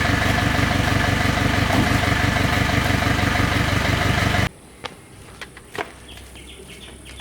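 An engine running steadily at idle, cut off abruptly about four and a half seconds in, followed by a few light clicks and knocks.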